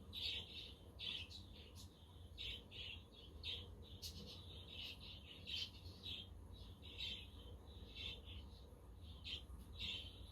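Budgerigars chirping and chattering, a run of short high chirps several times a second, over a steady low rumble.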